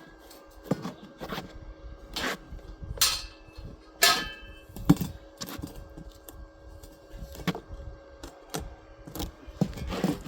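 Scattered knocks and clanks of materials being handled while building a pot stand, the sharpest a ringing clank about four seconds in, over a faint steady hum.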